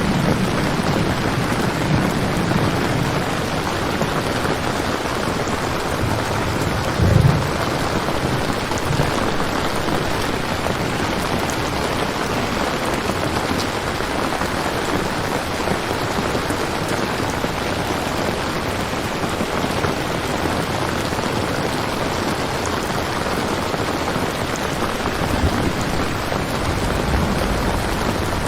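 Steady rain ambience, an even hiss of falling rain, with low rumbles of thunder, the strongest about seven seconds in and another near the end.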